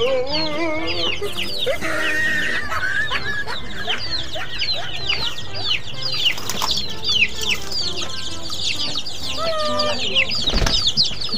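A flock of chicks peeping continuously: rapid, high, falling cheeps overlapping one another, with a few lower, longer calls among them. A dull bump near the end.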